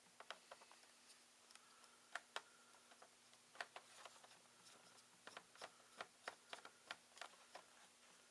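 Faint, irregular small clicks of a screwdriver working tight screws out of the underside of a laptop, more frequent in the second half.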